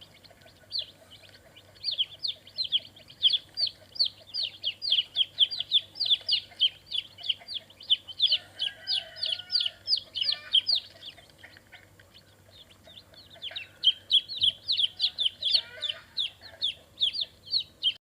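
Birds chirping: a long run of quick, high chirps, each falling in pitch, several a second, with a short lull about two-thirds of the way through and a few lower calls in the middle.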